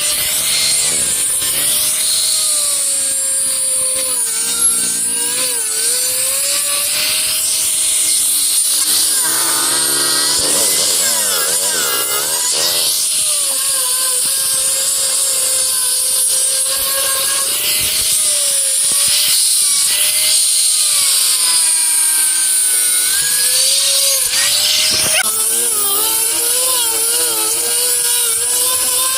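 Handheld electric power tool cutting into wood. Its motor whine wavers and dips again and again as the cutter bites, over a steady high hiss of the cut.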